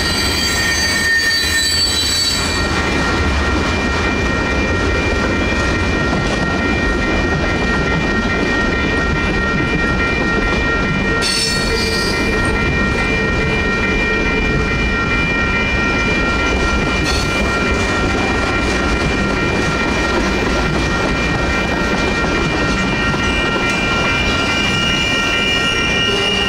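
Freight cars of a Union Pacific manifest train rolling through a grade crossing, with a steady rumble of wheels and trucks and brief wheel squeals near the start and again partway through. The crossing's electronic warning bells ring on top.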